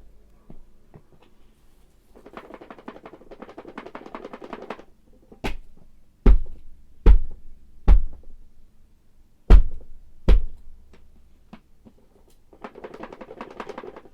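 A series of six heavy thuds, roughly a second apart, between two stretches of soft rustling.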